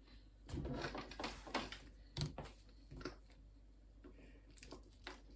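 Small plastic Lego pieces clicking and rattling as they are handled and pressed together: a run of rattling clicks about half a second in, then a few separate sharp clicks.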